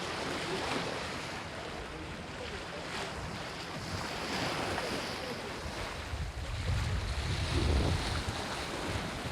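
Sea waves washing against the shore, with wind buffeting the microphone; a stronger gust of low wind rumble comes about two-thirds of the way through.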